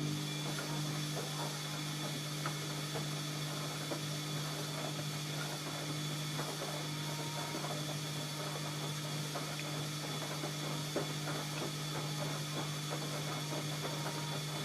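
ELIN A 100 E washing machine running: a steady motor hum with a thin high whine over it and a constant light rattle of small clicks.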